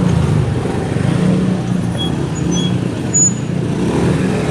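Motorcycle engine running steadily on the move through street traffic, a continuous low hum under road and wind noise.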